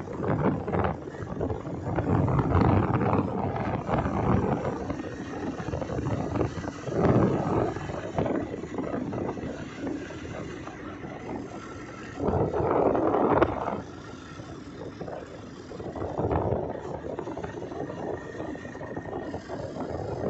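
Motorbike ride heard over a microphone buffeted by wind, the rushing noise rising and falling in gusts every few seconds.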